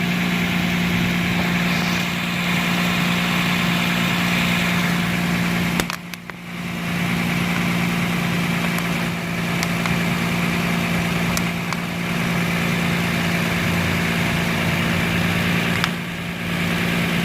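Toyota Land Cruiser's 1GR-FE V6 engine idling steadily, with an exhaust manifold leak that has been covered with epoxy paste. The sound dips briefly about six seconds in and again near the end.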